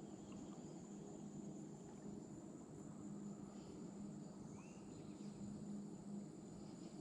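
Faint evening outdoor ambience: a steady high-pitched insect trill over a low hum.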